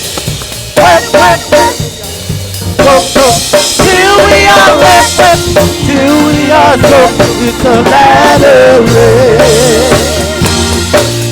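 Live gospel praise band music: sharp drum kit hits, then sustained bass notes under a wavering melodic line.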